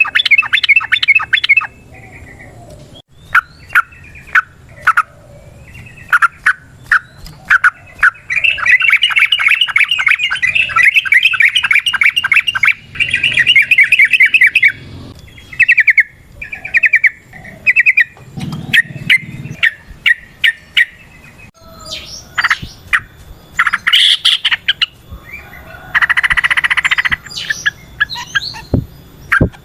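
Yellow-vented bulbul (trucukan) singing in bursts of sharp, bubbly chirps, with a long rapid trill from about eight to fourteen seconds in.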